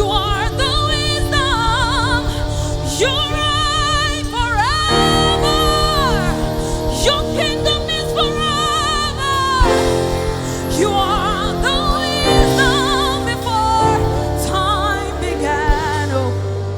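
Live gospel worship music: a solo voice sings held notes and runs with strong vibrato over sustained chords and a bass line. The chords change every few seconds.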